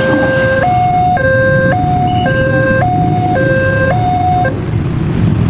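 Railway level-crossing warning alarm sounding a two-tone high-low pattern, switching notes about every half second, then cutting off about four and a half seconds in, over a steady low rumble of passing traffic.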